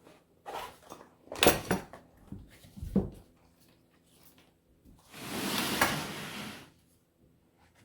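Handling noise from a travel knife holder: a few short knocks and clacks in the first three seconds, then a rustling swish lasting under two seconds.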